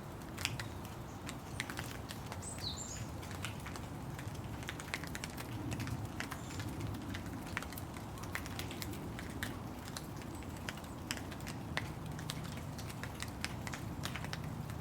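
Rain falling, with the irregular sharp ticks of individual drops over a steady patter. A bird chirps briefly a couple of times.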